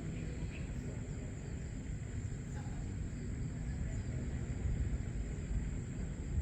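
Early-morning outdoor ambience: a steady low rumble under a continuous high-pitched insect drone, with faint scattered bird chirps.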